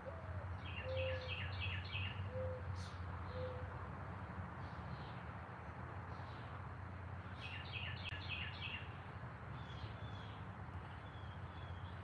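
Backyard birds calling over a steady low hum. A soft, low cooing call of four notes comes in the first few seconds, and a higher songbird gives a quick series of about five notes twice, near the start and again past the middle, with scattered faint chirps.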